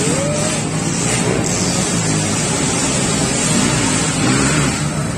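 Racing motorcycle engines running, with voices calling out now and then.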